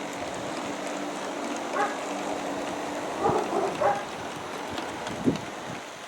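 Steady running noise of a G-scale model coal train on outdoor track, with a few short calls from something else about two and three and a half seconds in, and a single sharp knock near the end.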